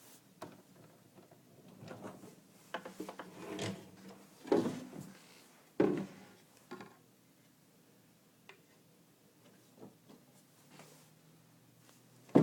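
An African grey parrot rummaging in a wooden desk drawer: irregular scraping and rubbing with knocks, the loudest about four and a half and six seconds in, then a quieter stretch of faint ticks and one sharp knock at the very end.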